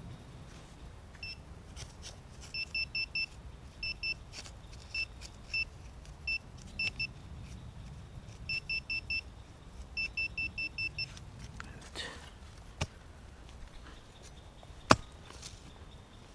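Metal detector beeping in short high-pitched pulses, often in quick runs of three or four, signalling metal in the ground; the beeping stops about eleven seconds in. A single sharp knock near the end is the loudest sound.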